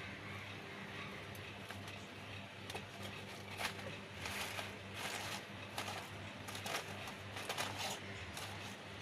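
Cooking over a charcoal stove: irregular short hissing spurts, about eight of them in the second half, over a steady low hum.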